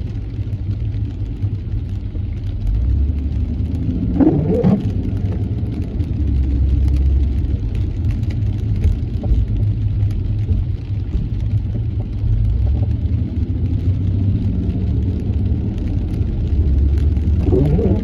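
Car interior road and engine rumble while driving in traffic, steady and loud, with two brief rising tones, about four seconds in and again near the end.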